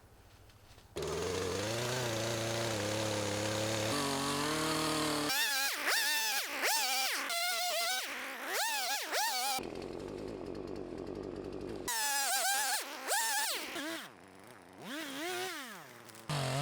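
Chainsaw comes in about a second in and runs steadily, then revs up and down again and again as it cuts through dead pine, with a short steadier stretch in the middle.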